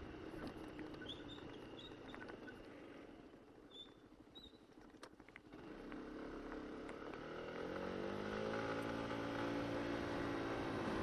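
Honda SH150i scooter's single-cylinder engine pulling away: after a quieter stretch with a few faint high chirps, the engine note rises about six seconds in and then holds steady and louder as the scooter gets up to speed.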